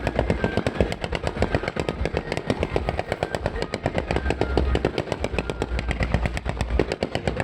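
A barrage of 3D matrix fireworks going off: a rapid, continuous string of sharp bangs, several a second, over a low rumble.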